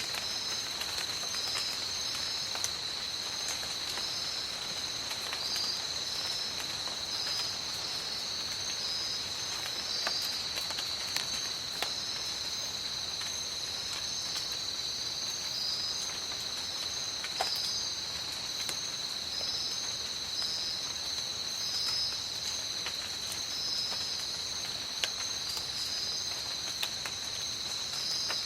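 Tropical rainforest rain falling steadily, with scattered close drips. Behind it runs a constant high-pitched insect drone, with a second insect call pulsing on and off above it.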